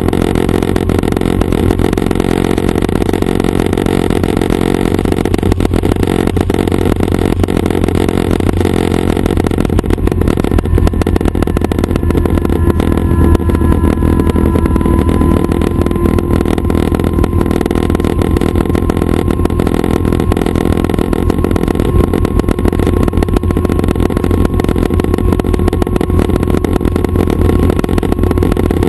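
Schweizer 269 light helicopter running steadily, its piston engine and rotors making a constant low drone. A faint thin whine rises above it around the middle.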